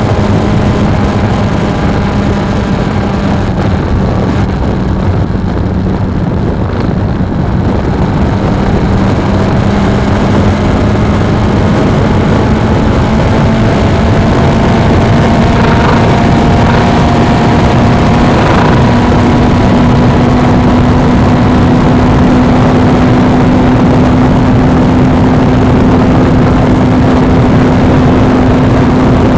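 Suzuki V-Strom 250's parallel-twin engine running at cruising speed under heavy wind rush. The engine note eases off about five seconds in, then climbs slowly in pitch as the bike gathers speed.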